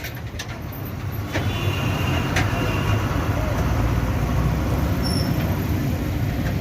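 Heavy vehicle engines running with a steady low rumble amid busy road traffic, with a few brief knocks.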